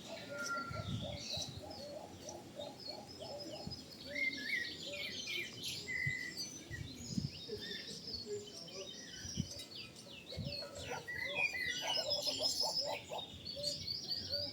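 Many birds chirping and calling at once: high twittering notes overlap throughout, with a lower call repeated several times in the first few seconds.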